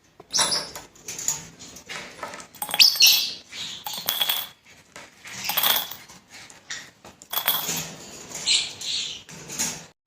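A pet parrot squawking in a run of about eight loud, harsh calls with short gaps between them.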